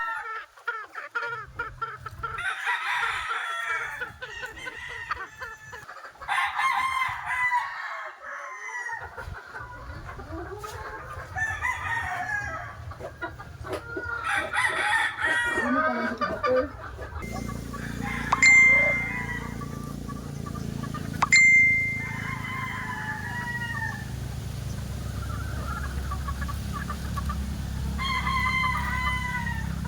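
Several roosters crowing over and over, their calls overlapping through the first half. A little past halfway a steady low rumble sets in under fewer, more scattered crows.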